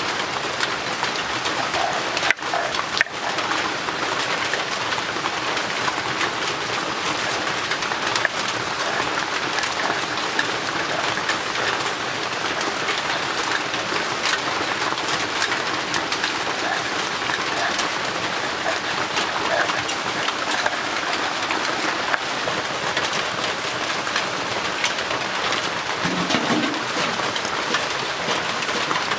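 Heavy rain pattering steadily on a tin roof. A couple of sharp knocks come about two and three seconds in.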